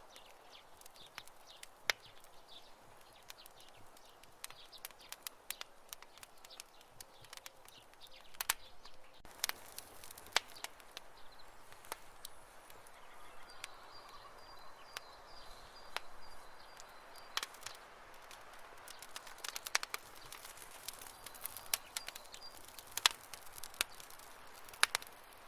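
Wood campfire crackling, with irregular sharp pops and snaps over a faint hiss. A faint, quickly repeated high chirping comes in for a few seconds around the middle and again briefly near the end.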